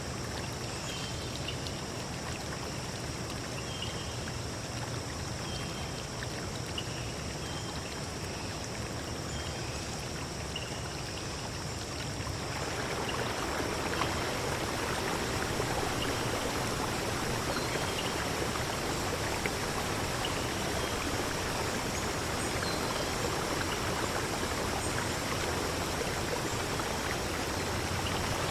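Stream water flowing and rushing steadily, growing louder about halfway through. Faint short high chirps show through in the first half.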